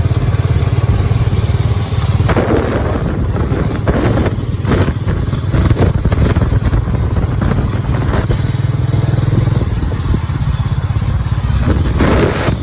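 Motorcycle engine running steadily under way, a continuous low drone. Several short, louder noisy surges come on top of it between about two and five seconds in and again near the end.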